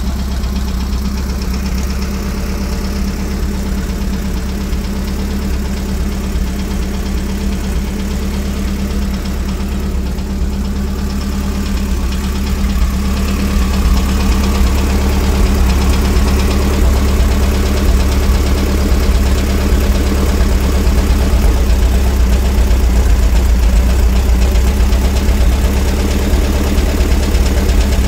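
1970 Volkswagen Fusca's air-cooled flat-four engine idling steadily while its carburettor is adjusted by hand, the engine picking up and running a little louder about halfway through.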